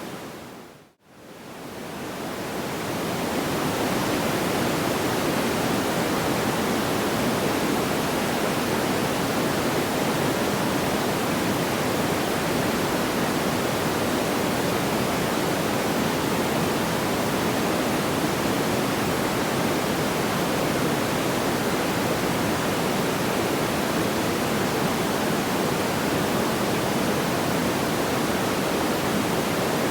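Steady, even rushing noise with no distinct crackles or pops. About a second in it fades out to near silence and then swells back up over the next two or three seconds, the seam of a looped sleep-sound track.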